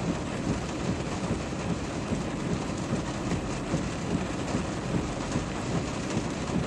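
Heavy rain with a steady low rumble, even and unbroken, picked up by a helmet camera's microphone.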